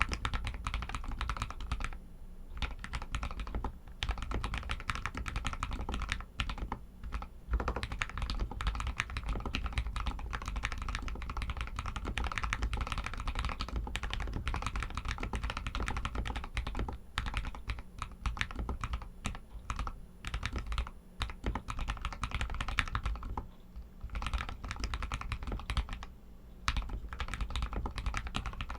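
Royal Kludge RK61 mechanical keyboard with Outemu Red linear switches being typed on continuously: a dense run of keystrokes with a few short pauses, one about two seconds in and two more near the end.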